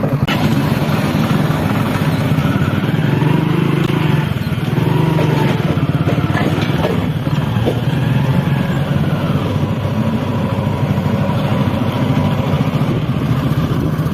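Heavy diesel engine running steadily with a rapid, even beat.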